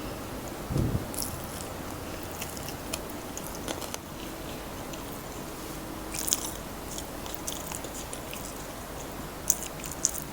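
Close-up eating sounds: biting and chewing crispy fried chicken, with crisp crunches and crackles scattered through. There is a soft low thump about a second in, and the sharpest crunches come around six seconds in and near the end.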